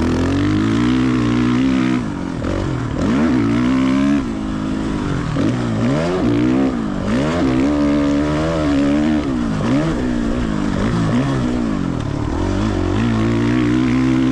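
Engine of a 450 motocross bike being ridden around a track, revving up and falling back over and over as the throttle is opened and closed, with brief drops in level about two and four seconds in.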